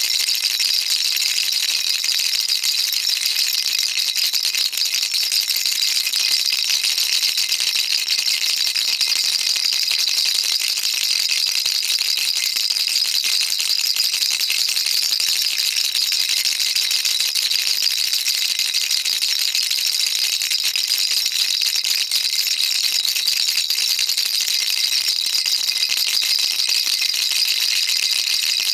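Baby rattle shaken continuously: a dense, steady stream of fine high clicks from the small beads inside.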